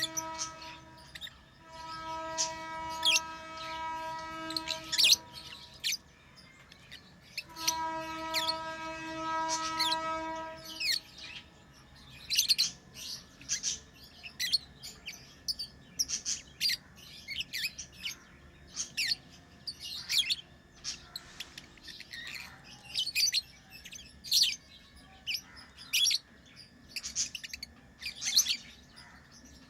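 Pet lovebirds chirping in many short, sharp, high calls, coming thick and fast in the second half. Under the first ten seconds or so runs a steady droning hum, which drops out briefly about five seconds in and stops for good about eleven seconds in.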